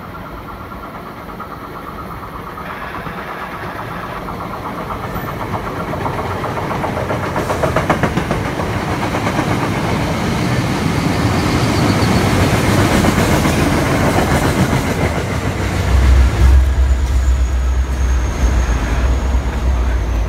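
MBTA commuter rail push-pull train passing along the platform, coach wheels rumbling and clicking over the rails and growing steadily louder as it comes out of the tunnel. From about three-quarters of the way in, the diesel locomotive at the rear goes by with a deep engine rumble, and a thin high squeal joins in near the end.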